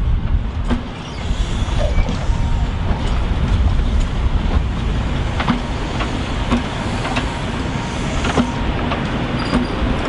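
InterCity 125 train with its diesel power cars running: a steady low rumble, with scattered sharp clicks and knocks every second or so.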